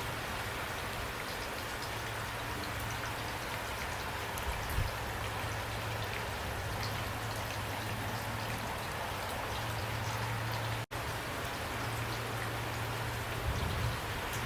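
Steady rain falling, with scattered drops ticking over an even hiss and a low steady hum underneath. The sound drops out for a split second about eleven seconds in.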